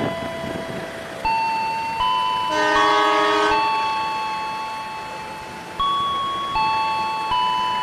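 Railway level-crossing warning chime ringing in a repeating series of ding-dong tones, with a train horn sounding for about a second a little before the middle.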